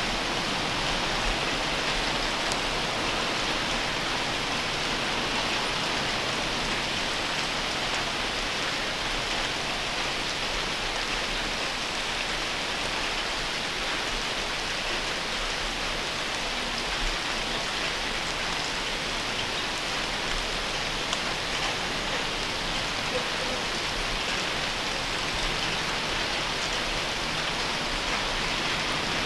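Steady rain falling at night, a dense, even patter with a few louder single drops.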